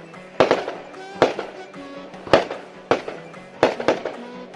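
Fireworks exploding: about six sharp bangs at uneven intervals, each with a short echo, the loudest a little past the middle.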